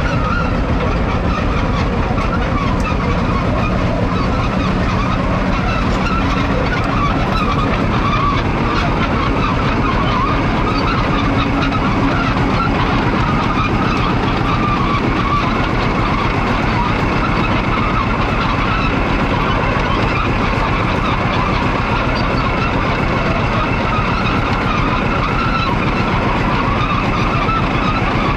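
Single-cylinder two-stroke diesel engine of a 1950 Fowler VF crawler tractor, running steadily.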